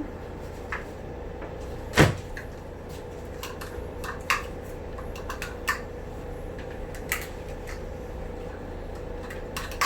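A kitchen cupboard door banging shut about two seconds in, followed by several lighter knocks and clicks as things are taken out and handled, over a steady low hum.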